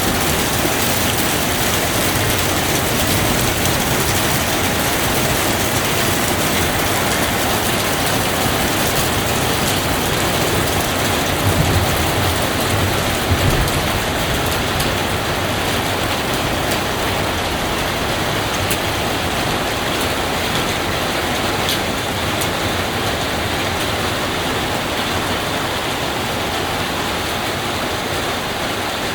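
Steady, even rain, a good rain, with two brief low bumps near the middle.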